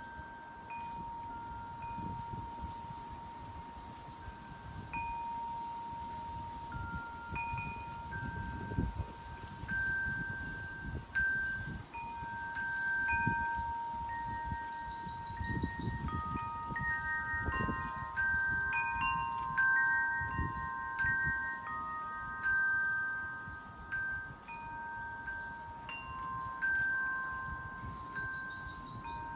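Wind chimes ringing in gusty wind: several long, clear tones struck irregularly and overlapping, over the low rumble of wind gusts.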